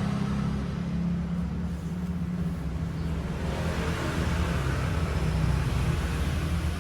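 A steady low rumble with a constant hum, of the kind a running road vehicle makes.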